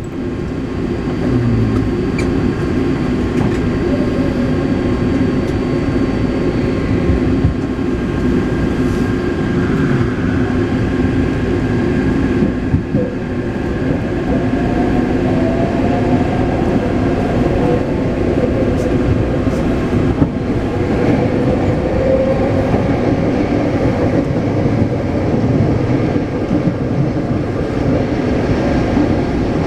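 Taipei Metro C381 train running between stations, heard on board: a steady rumble of wheels on the rails, with a faint motor tone that rises in pitch a few times around the middle.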